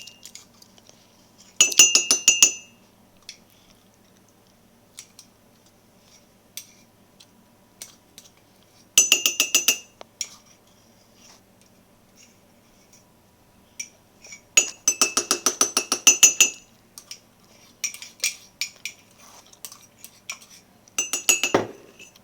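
A spoon clinking rapidly against a cup while scooping cookie dough into it, in four bursts of about a second each, with the cup ringing at each tap. Scattered light ticks fall between the bursts.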